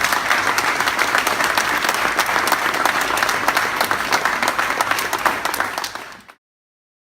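Audience applauding, a dense steady clapping that cuts off abruptly about six seconds in.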